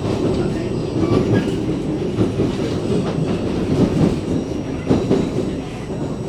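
CSR Zhuzhou light-rail train running at speed, heard from inside the car: a steady rumble of wheels on rail with a few sharper clacks along the way.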